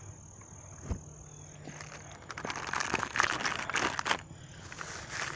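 Rustling and crinkling of things being handled and stuffed into a backpack, with a single knock about a second in. A steady high insect trill sounds in the background.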